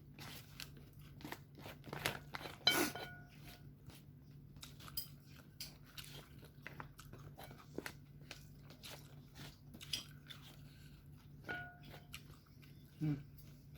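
Close-miked eating: irregular crunching and chewing of food, with a couple of brief ringing clinks and a low steady hum underneath.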